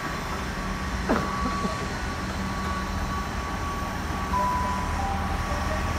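Trains at a station platform: a steady low hum of train motors, with a steady higher whine joining about four seconds in.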